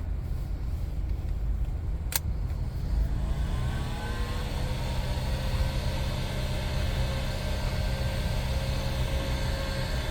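A click, then a heat gun's fan spins up with a rising whine that levels off into a steady whine and rush of air, over a steady low rumble.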